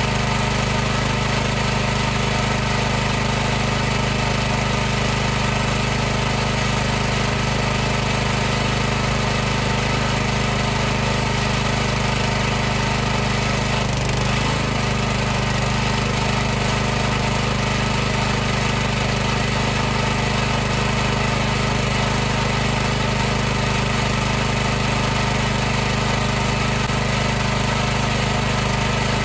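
High-pressure washer running continuously: a steady machine drone of its motor and pump, with a low hum under an even hiss, holding the same level throughout.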